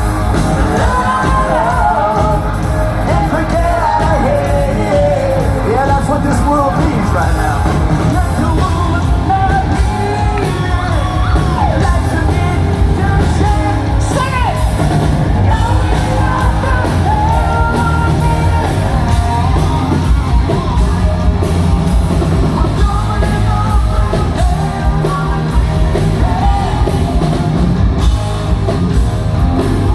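Live rock band playing loudly in a large hall, with singing, guitars and drums, and yells from the crowd.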